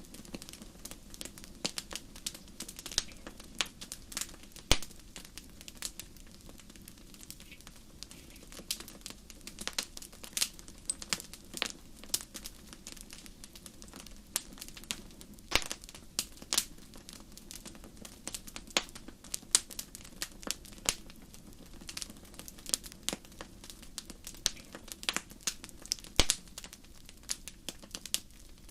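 Campfire crackling: irregular sharp pops and snaps, several a second, over a soft steady low rush.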